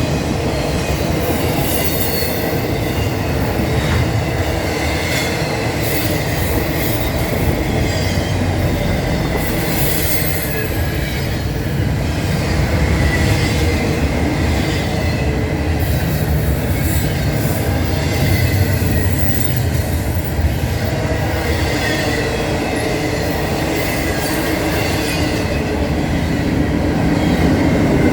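Norfolk Southern train rolling past: a steady rumble of wheels on the rails with scattered clicks and a faint high wheel squeal.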